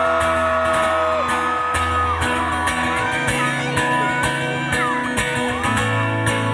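Live band playing a pop-rock song with drums, bass and guitar, with no singing for most of the stretch. A long held note ends about a second in, and the bass line changes about three seconds in.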